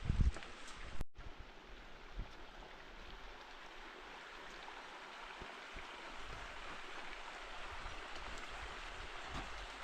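Steady rush of running water, after a couple of low thumps in the first second.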